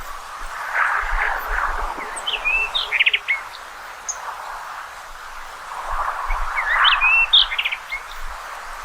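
Common rock thrush singing: two short phrases of quick whistled notes, one about two seconds in and another about seven seconds in, over a rushing background noise that swells twice.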